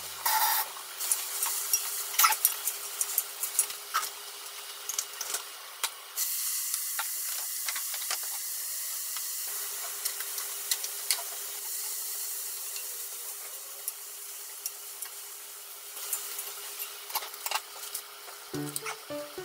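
Carrot sticks sizzling in a small tamagoyaki frying pan as shirodashi and mayonnaise go in and they are stirred. There are scattered clicks of utensils on the pan in the first seconds, then a steady sizzle from about six seconds in until near the end.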